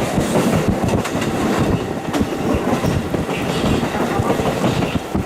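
JR KiHa 40 diesel railcar running along the track, heard through a fully open window: steady wheel and rail noise with irregular clacking over the rails.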